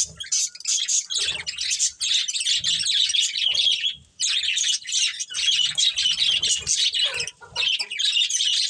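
Several budgerigars chattering and chirping continuously in rapid, scratchy high-pitched bursts, with a brief pause about four seconds in.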